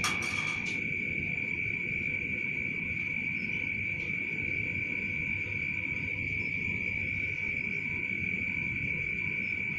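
A steady high-pitched whine held on one pitch over a low rumbling hiss, with a few faint clicks in the first second.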